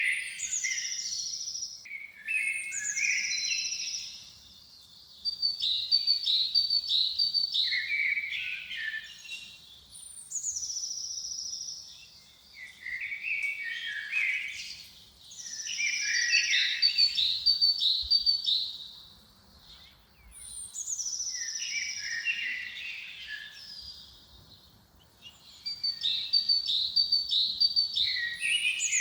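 Birdsong: bright song phrases come every few seconds with short pauses between, each mixing a high falling whistle with a quick run of repeated notes.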